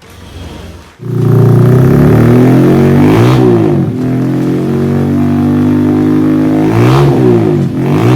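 Engine running through an aftermarket Jetshot exhaust. It gets suddenly loud about a second in, then is revved up and back down twice, about three and seven seconds in.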